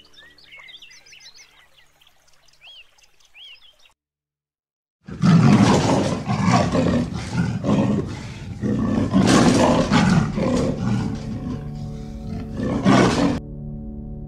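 Faint chirps over soft background music, then a second of silence, then a leopard roaring and growling in repeated loud bursts for about eight seconds. Soft music returns near the end.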